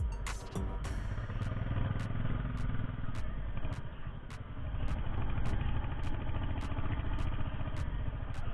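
Motorcycle engine running at low speed, rising and falling a little with the throttle, with a faint regular ticking about three times a second.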